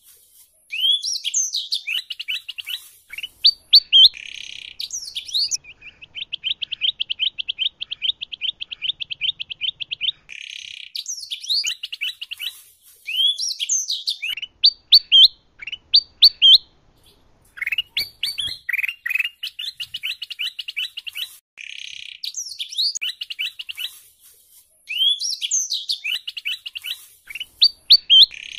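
Kutilang emas and canary song mixed together: phrases of quick, sweeping chirped notes alternate with a long, rapid, even trill. The same pattern repeats about every ten seconds, as in a looped birdsong track.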